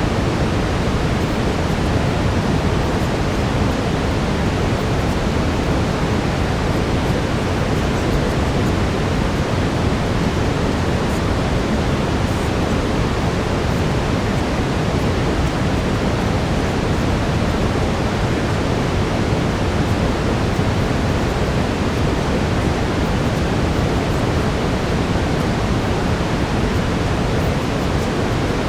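Steady brown noise: an even, deep rushing hiss with no rhythm or change.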